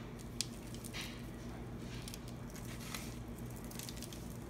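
Soft squishing of crushed Cheetos being pressed by hand onto a cheese ball, a few faint strokes over a steady low hum.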